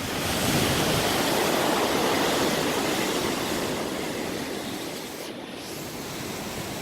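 A sea wave breaking and washing in, a rush of water that swells in the first second and slowly dies away over the next few seconds.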